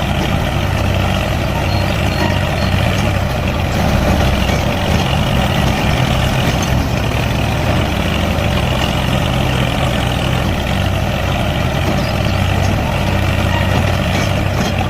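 A heavy engine running steadily, like a tractor or truck idling, with a low, even rumble.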